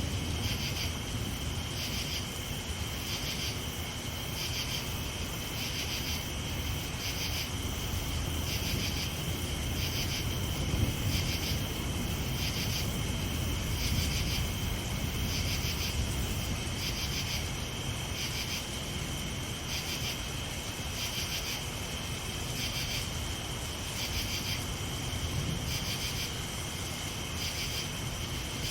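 Night insects, cricket-like, chirping in a steady rhythm about once a second, two high-pitched voices pulsing together. Underneath runs a steady hiss and low rumble of rain.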